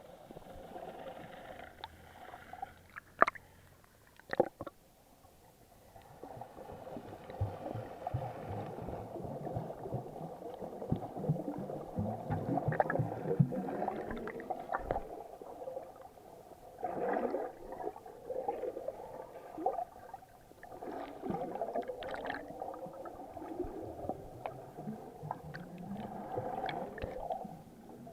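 Muffled underwater sound picked up through an action camera's waterproof housing: gurgling water and bubbles, with two sharp knocks on the housing about three and four and a half seconds in.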